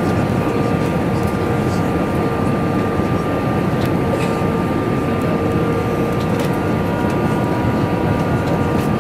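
Steady roar inside the cabin of an Airbus A321-231, from its IAE V2500 engines and the airflow, with steady whining tones over it and faint scattered rattles from the cabin.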